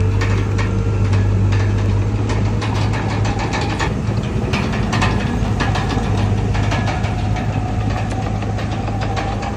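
Komatsu D31PX bulldozer's diesel engine running steadily with a deep, even hum, overlaid by frequent sharp clanks.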